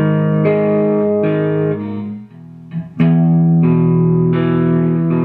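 Guitar in drop D-flat tuning (half step down, low string dropped a whole step) playing a short riff phrase: a chord ringing while the notes above it change, a brief break about two seconds in, then a new chord let ring with changing notes until it is muted near the end.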